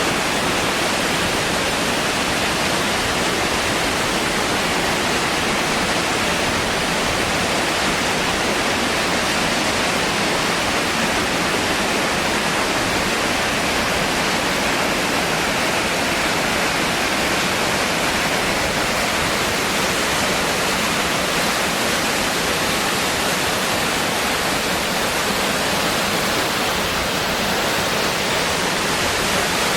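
Gendayu Falls, a mountain-gorge waterfall, with a steady, unbroken rush of falling water.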